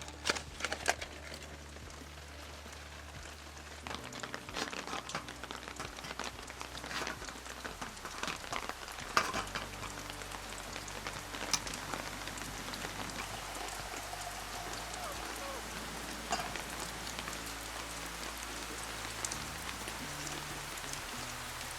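Heavy rain falling steadily, with scattered individual drops ticking sharply and irregularly on a nearby surface.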